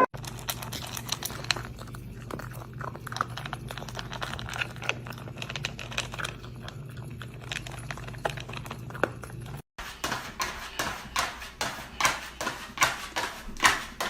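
A cat making quick small clicks and smacks close up, irregular at first over a low steady hum. After a cut about ten seconds in, a steadier run of strokes follows, two or three a second.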